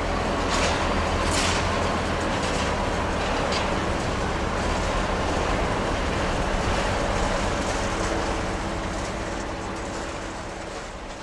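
Jet airliner engines running, heard as a steady broad noise with a low hum that swells slightly and fades toward the end.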